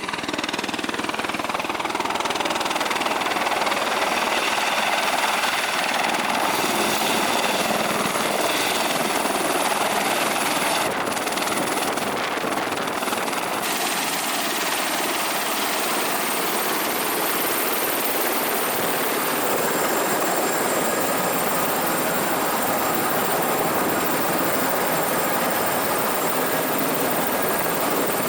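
Helicopter running with a steady rush of turbine and rotor noise. A thin high whine joins in about halfway through.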